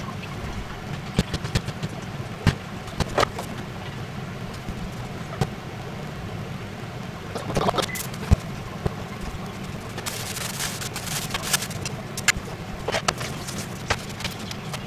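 Scattered sharp clicks and knocks over a steady low hum, with a short spell of hissing noise about two-thirds of the way through.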